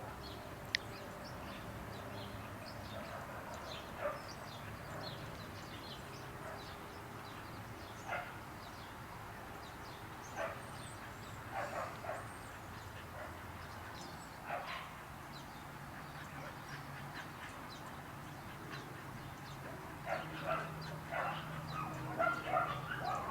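Faint dog barks and yips, spaced a few seconds apart, then coming in a quicker run near the end.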